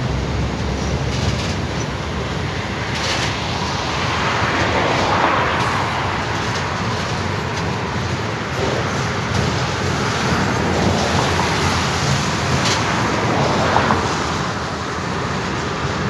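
Freight train wagons loaded with tank containers rolling past: a steady rumble of steel wheels on the rails, with a few sharp clicks along the way.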